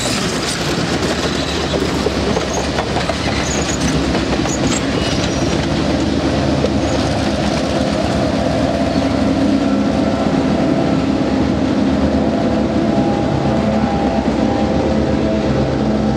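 Passenger train cars rolling past with wheels clacking over the rail joints, followed about halfway through by a trailing diesel locomotive whose engine hum adds steady tones to the rolling noise.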